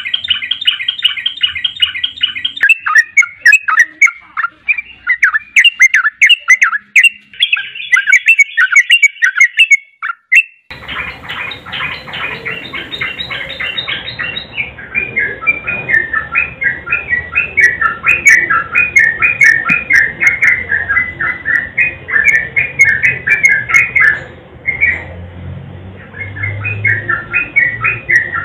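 Yellow-vented bulbul (trucukan) singing long, rapid chattering phrases of quick repeated notes. About ten seconds in, the recording switches to another take with a steady background hiss, and the fast song runs on.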